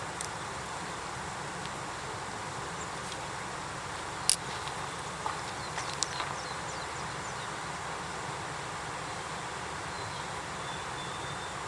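Wood campfire crackling, with a few sharp pops, the loudest about four seconds in, over a steady outdoor hiss.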